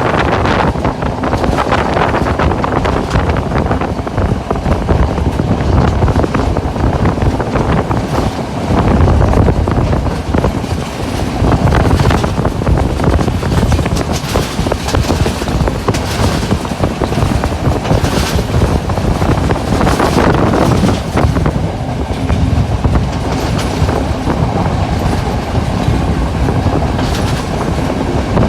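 A moving passenger train running along the rails: steady, loud wheel-and-track noise, with wheels clattering over rail joints now and then.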